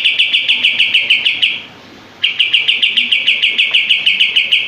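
Kapas tembak songbird giving its rapid 'shooting' trill of fast, closely spaced notes. The run breaks off about a second and a half in, and after a half-second pause a second run starts and carries on.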